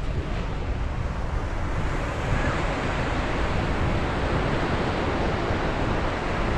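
Sea waves breaking on a beach, a steady wash of surf that swells about two and a half seconds in, with wind rumbling on the microphone.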